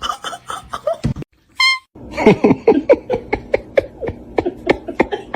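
A pet's short calls repeated rapidly, about three or four a second, from about two seconds in, after a single thump about a second in.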